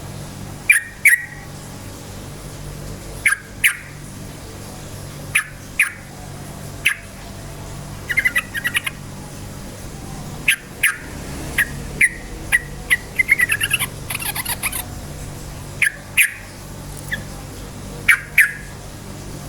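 Yellow-vented bulbul calling: short, sharp chirps repeated every second or two, with two fast chattering runs in the middle, over a steady low hum.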